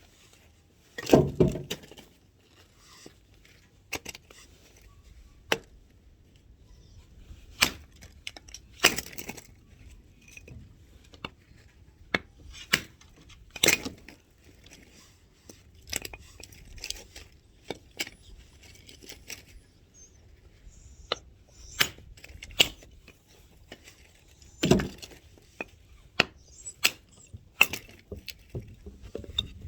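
Axe blows chopping firewood: a few heavy strikes several seconds apart, with lighter knocks and clatter of wood between them.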